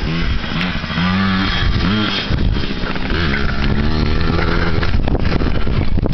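Dirt bike engine revving while riding, its pitch climbing and dropping several times.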